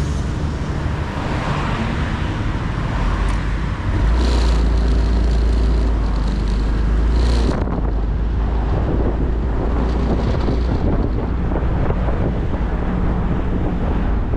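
Motorcycle engine running on the road with wind on the microphone. The low rumble grows heavier from about four seconds in until past seven seconds.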